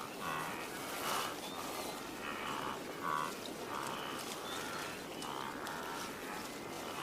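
Outdoor natural ambience with repeated short animal calls, about one every half-second to second.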